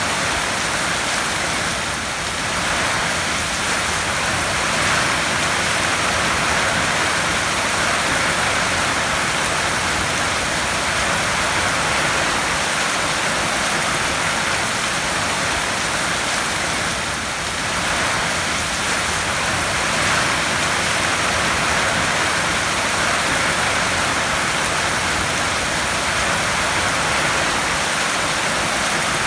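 Heavy rain drumming steadily on a corrugated metal (tin) roof, a dense even hiss, easing slightly for a moment about 2 seconds and about 17 seconds in.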